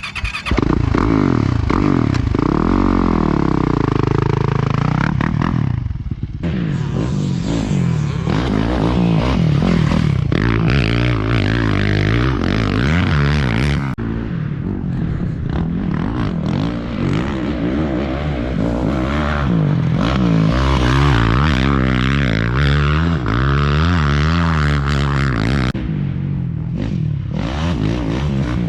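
2020 Yamaha YZ450FX dirt bike's 450 cc four-stroke single-cylinder engine being ridden, its revs rising and falling over and over as the rider opens and closes the throttle through the gears.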